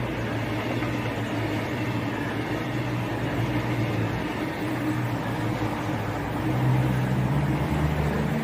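Coupled CrossCountry Voyager diesel multiple units (Class 221 and Class 220) passing through the station, their underfloor diesel engines running with a steady drone over wheel and rail noise, growing louder near the end.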